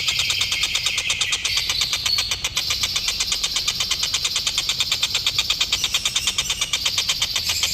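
Tengkek buto kingfisher giving a fast, continuous rattling trill of about ten notes a second.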